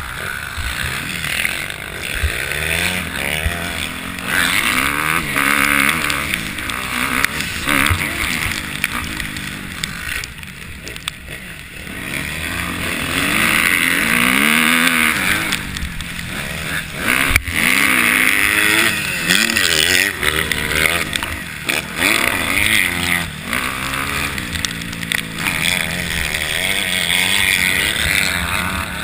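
Motocross dirt bike engines revving up and down as the bikes ride the track, the pitch climbing and dropping again and again with throttle and gear changes. There is one sharp click a little past halfway.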